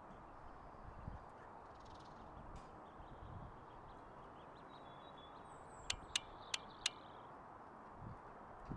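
Faint outdoor background with faint, high bird chirps. About six seconds in come four sharp clicks in quick succession.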